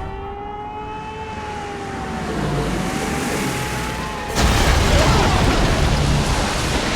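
An air-raid siren wails with a steady, slightly wavering pitch; about four seconds in, a loud explosion from a bombing attack breaks in and its heavy rumble carries on.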